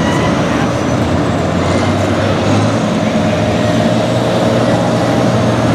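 Farm tractor engine running loud and steady under load during a tractor pull.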